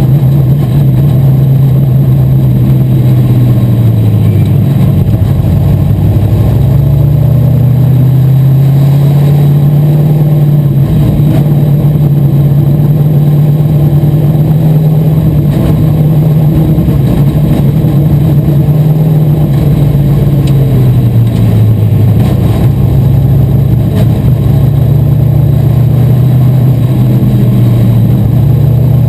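Asphalt modified race car's V8 engine running hard at racing speed, loud throughout. Its pitch falls and climbs back twice, about a sixth of the way in and again about three quarters in, as the throttle comes off and goes back on through the turns.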